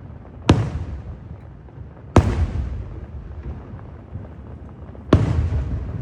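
Aerial fireworks shells bursting: three sharp booms, about half a second, two seconds and five seconds in, each trailing off in a low rolling rumble.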